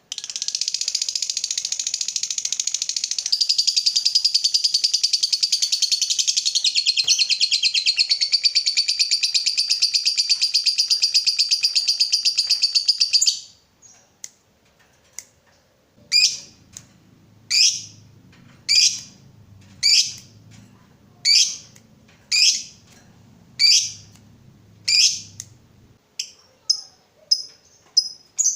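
Lovebird giving its long, fast, unbroken chattering trill (ngekek) for about thirteen seconds. After a short pause it gives about ten single sharp calls, roughly one a second, then quicker short chips near the end.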